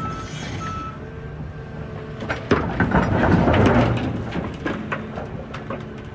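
Heavy diesel machinery running with a backup alarm beeping, which stops about a second in. About two and a half seconds in, a load of rocks crashes and clatters into a dump truck's steel body for about two seconds as the excavator dumps its bucket.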